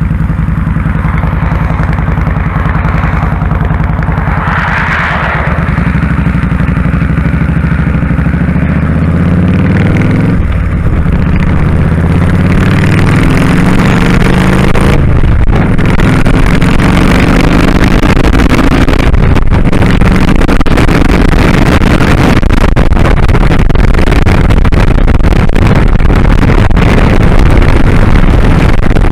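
Kawasaki Drifter 1500's V-twin engine pulling the motorcycle up through the gears. The pitch climbs, drops at a shift about ten seconds in and again about fifteen seconds in, then holds. Wind noise on the microphone grows as speed builds.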